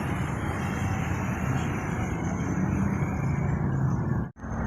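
Road traffic: a vehicle engine running close by with steady road noise. The sound cuts out for a moment near the end, then returns.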